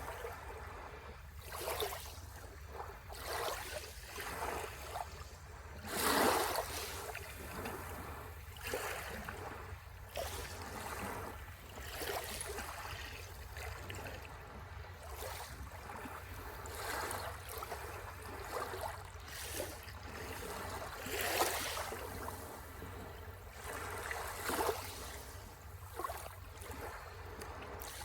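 Sea waves washing onto the shore in irregular swells, with fizzing and crackling as the water runs back, and the biggest washes about six seconds in and again near twenty-one seconds. A steady low rumble runs underneath.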